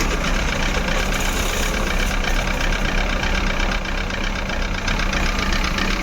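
Maruti Suzuki Eeco's four-cylinder petrol engine idling steadily with a fast, even ticking. It is idling rough and shaking the car, a misfire that the scanner later traces to a faulty manifold absolute pressure (MAP) sensor reading high (code P0108).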